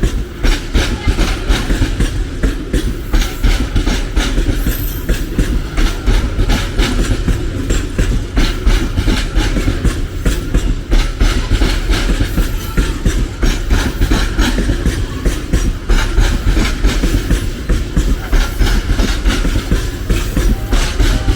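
A train passing close by, its wheels clattering steadily over the rails with a deep rumble underneath.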